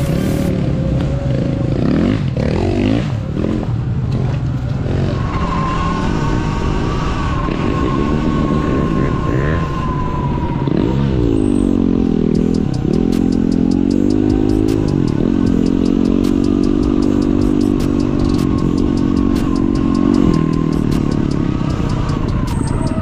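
Off-road motorcycle engine running on a dirt trail, revving up and easing off so that its pitch rises and falls again and again. From about halfway, light rapid ticking and rattling runs under it.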